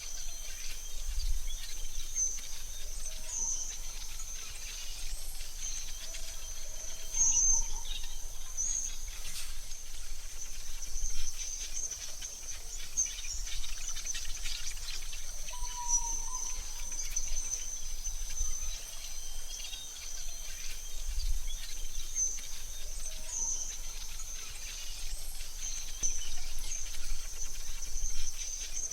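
AI-generated forest ambience: a steady high-pitched insect trill with scattered short bird chirps and calls over it, and an occasional low rumble.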